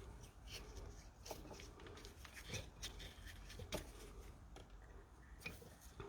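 Faint, scattered clicks and taps of small injector parts, such as the retaining clip and the plastic fittings, being handled and fitted by hand, over a low steady background hum.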